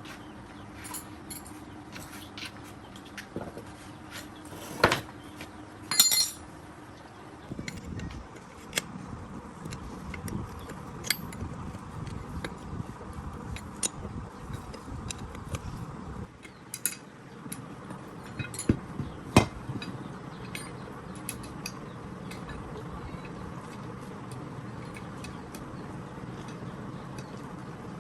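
Hand tools clinking and knocking on metal parts, a scatter of irregular taps with a few sharper strikes, the loudest about five, six and nineteen seconds in, one of them ringing briefly.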